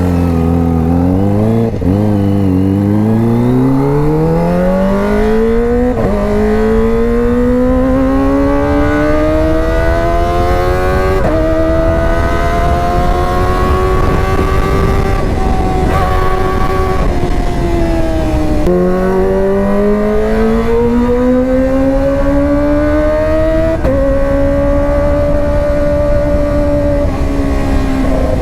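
Kawasaki ZX-25R inline-four engine through a GP Tech Zeus Short aftermarket exhaust, pulling up through the gears. Each gear brings a long rise in pitch, and the pitch drops a little at each shift. The pitch eases off for a few seconds in the middle, climbs again through two more shifts, and holds steady near the end.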